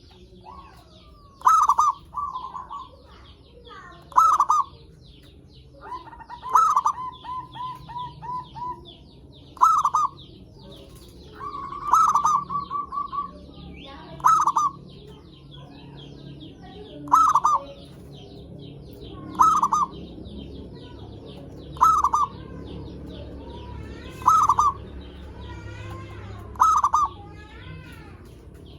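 Zebra dove (perkutut) cooing over and over, one loud call about every two and a half seconds. Twice the call runs on into a quick string of softer notes. Small birds chirp steadily and faintly in the background.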